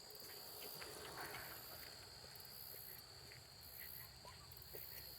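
Faint outdoor ambience of insects trilling in pulses that come and go about once a second, with a few soft footsteps.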